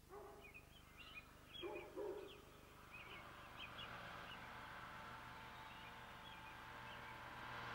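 Faint birdsong: small birds chirping, with a few short low hooting calls in the first two seconds. A low engine hum grows in from about three seconds in.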